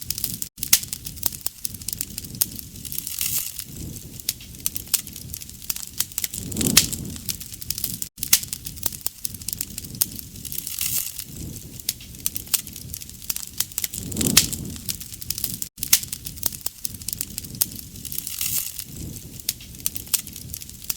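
Wood fire crackling, with dense sharp pops and snaps and a low rush of flame swelling up about every seven to eight seconds. The pattern repeats at that spacing, as a looped recording does.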